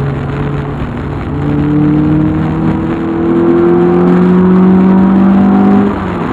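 Volkswagen Golf Mk2 engine pulling under acceleration, its note rising steadily for several seconds, then falling suddenly at a gear change near the end.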